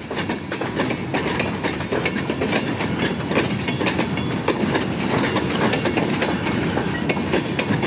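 Freight train cars rolling past close by: a steady rumble of steel wheels on the rails, with a rapid run of sharp clicks and clacks.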